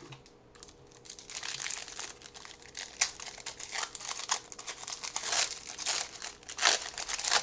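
Wrapper of a 1996-97 Topps Stadium Club basketball card pack crinkling and tearing as it is torn open by hand. The crackle is dense and irregular, starting about a second in, with a few sharper snaps.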